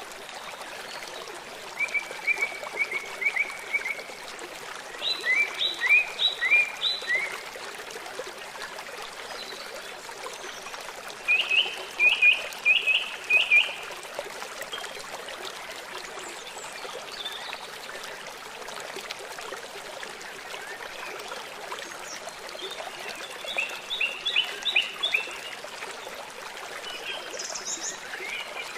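Steady rush of running water under a songbird's calls: four separate phrases of quick, repeated short chirps, about two seconds in, around five seconds in, around eleven seconds in and around twenty-three seconds in.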